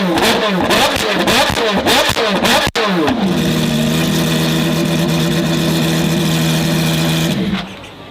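A performance car engine revved in quick blips, its pitch rising and falling several times a second, then after a brief break held at a steady high speed for about four seconds before it stops near the end.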